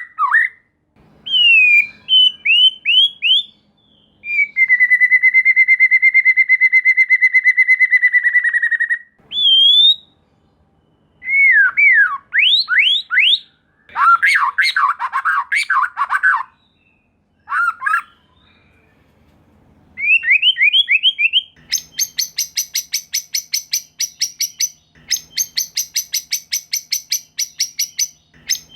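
White-rumped shama (murai batu) singing loud, varied phrases of quick rising whistled sweeps, with a long trill held on one pitch for about four seconds near the start. The song then turns into a long, fast run of rapidly repeated notes, with a brief pause partway through.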